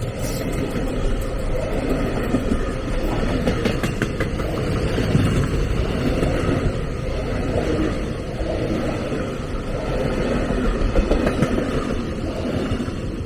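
A train passing on the line, its wheels running on the rails with a steady rumble and scattered clicks, fading away at the very end.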